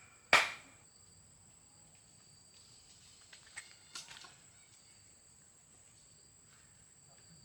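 A single sharp knock just after the start, a struck blow that dies away quickly. Then steady high insect chirring with a few light clicks around the middle.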